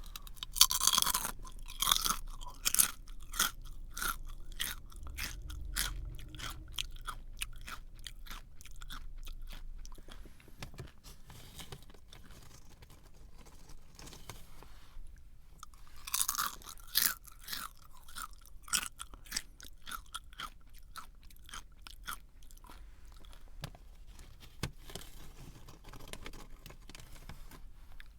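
A crunchy snack being bitten and chewed close to the microphone: a loud crunching bite about half a second in, then chewing crunches that thin out, and a second bite a little past the middle followed by more chewing.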